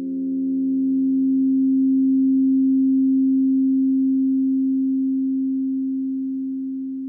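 Several crystal singing bowls ringing together in a sustained chord of pure tones. The sound swells over the first couple of seconds, then slowly fades.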